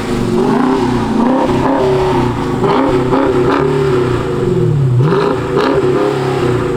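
Dodge Challenger Scat Pack's 392 Hemi V8 being revved in a series of throttle blips, the engine note climbing and dropping back several times.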